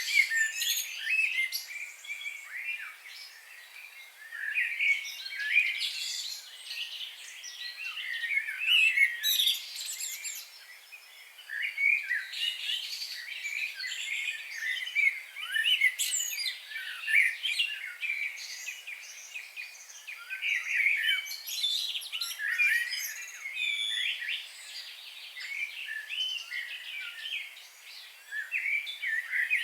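Several songbirds chirping, whistling and trilling over one another in a continuous chorus of short, quick high-pitched notes.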